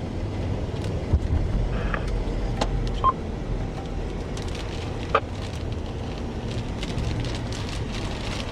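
Steady low rumble of wind buffeting the microphone in a storm, with a few faint sharp clicks and a brief high beep about three seconds in.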